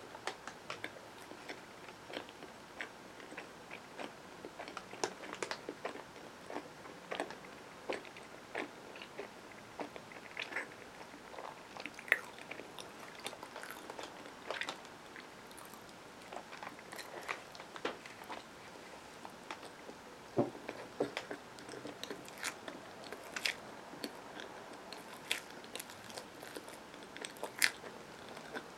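Close-miked chewing of a peanut butter and marshmallow sandwich on wheat bread: a run of short, irregular mouth clicks and smacks with no talking.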